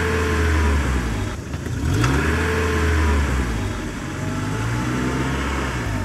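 Tractor engine sound, revving up and easing off three times, about two seconds apart, as if straining under load.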